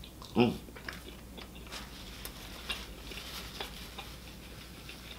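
A person chewing a mouthful of a triple burger with bacon, close to the microphone: a brief muffled sound about half a second in, then soft, scattered wet clicks and smacks of chewing.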